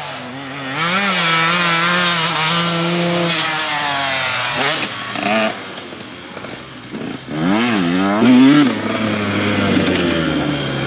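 Two-stroke dirt bike engine with a Mikuni TMX38 carburetor revving up and down under the rider's throttle. It pulls hard early on, drops to a lower, quieter note in the middle, then climbs in a sharp rising rev about three-quarters of the way through.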